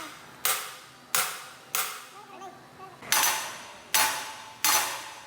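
Heavy hammer blows striking metal, six sharp strikes about 0.7 s apart, each with a short metallic ring, with a pause of about a second and a half in the middle.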